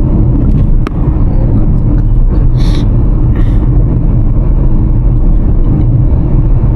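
Steady low road and engine rumble inside the cabin of a moving car. There is a sharp click just under a second in, and two brief hisses a little later.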